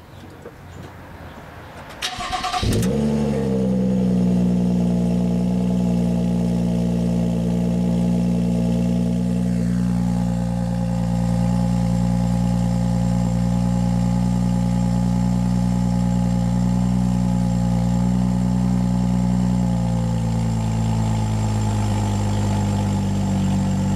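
BMW X3 35i's turbocharged 3.0-litre inline-six starting, heard at the dual tailpipes. It cranks briefly about two seconds in, catches with a quick rev flare, then idles steadily. The idle settles a little lower near the end.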